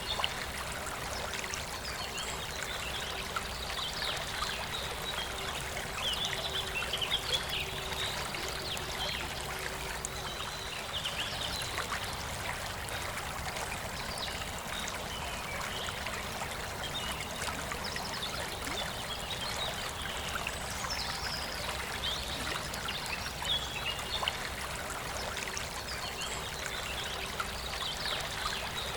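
Forest river flowing with a steady rush and trickle of water, with birds singing in short phrases every few seconds in the background.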